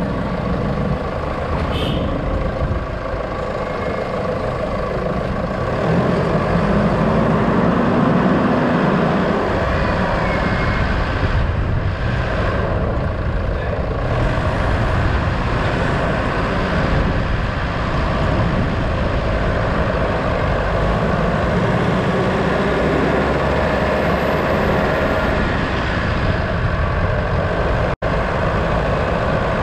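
A road vehicle driving, with steady engine and road noise. The sound drops out for an instant near the end.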